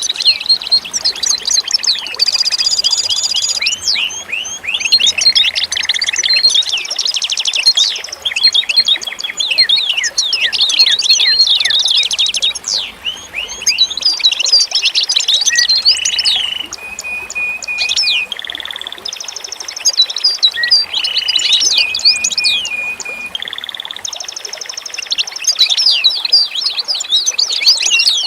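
A dense chorus of many songbirds chirping and trilling at once, overlapping short rapid calls with no pause.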